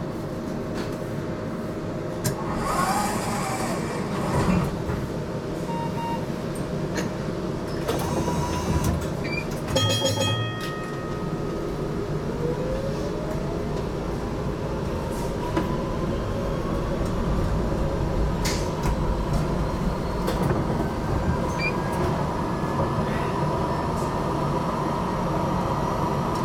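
HTM GTL8 tram running, heard from on board, with steady running noise throughout. About ten seconds in there is a short, rapidly pulsing ringing signal. After that a whine rises in pitch as the tram pulls away and then holds steady.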